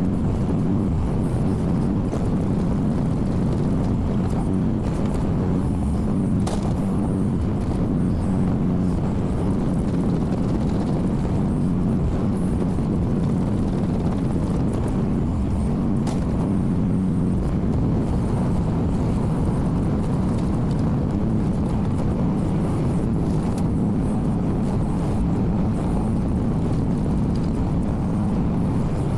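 Engine of a compact earthmoving machine running steadily at a constant speed, close by.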